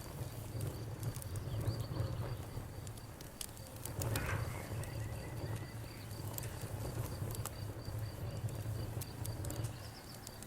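Wood fire crackling with scattered sharp pops, over a steady, rapidly pulsing chirp of crickets.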